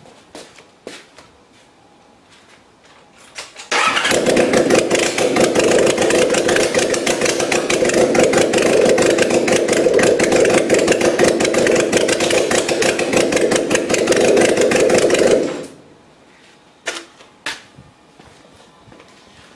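Kawasaki Zephyr 1100's air-cooled inline-four starts about four seconds in and runs at a steady idle through its exhaust for about eleven seconds, then is shut off abruptly. A few faint clicks come before and after.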